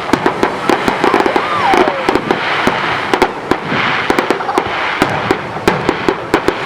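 Fireworks display: a rapid, irregular series of sharp bangs and crackling from bursting aerial shells, with a short falling whistle about two seconds in.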